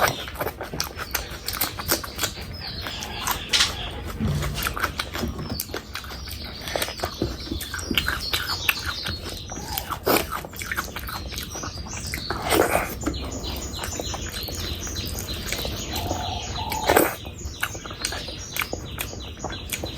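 Close-miked eating: wet chewing and repeated sharp lip and mouth smacks as a mouthful of fish curry and rice is eaten.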